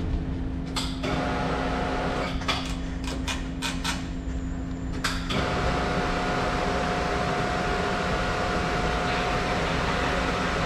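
An engine running steadily, with several sharp metallic clanks in the first five seconds; about five seconds in a steady whine joins and holds, as from hydraulics working.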